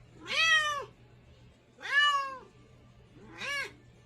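A cat meowing three times, each call rising and then falling in pitch, about a second and a half apart.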